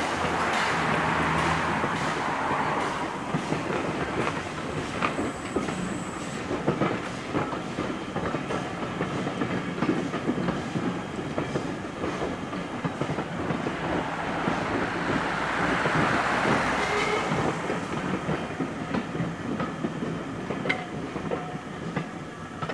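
Passenger coaches of a heritage train rolling past, their wheels clacking over the rail joints. The sound fades near the end as the last coach goes by.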